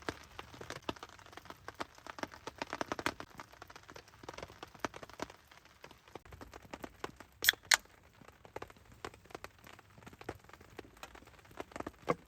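Campfire crackling in the rain: irregular small ticks and pops, with two sharp, loud cracks close together about seven and a half seconds in.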